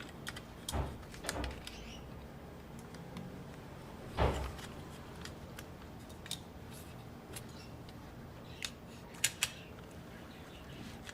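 Sparse clicks and light knocks of small tools and parts being handled on a workbench, one louder knock about four seconds in and a quick pair of sharp ticks near the end. Pet birds chirp faintly in the background.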